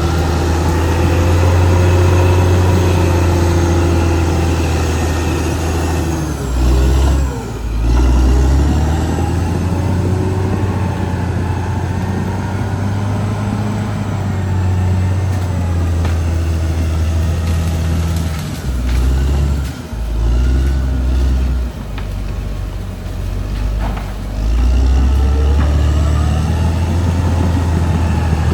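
Caterpillar D6R XL bulldozer's diesel engine running hard while working. Its note dips and rises again several times.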